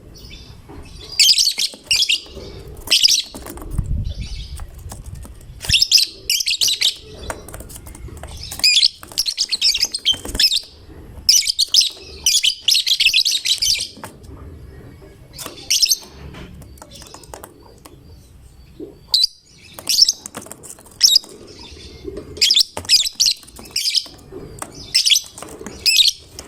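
Lovebird singing in rapid, high-pitched chattering bursts of half a second to a couple of seconds, with short pauses between: the continuous 'gacor' song of a fighter lovebird.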